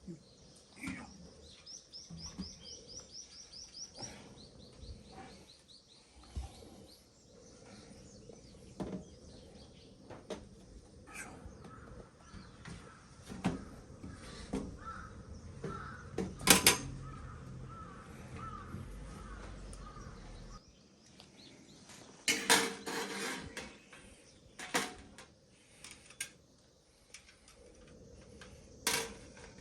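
Birds calling outdoors, with a fast high chirping trill near the start and a wavering call later. Scattered sharp clicks and knocks come through throughout, the loudest about halfway through and a quick cluster of them later.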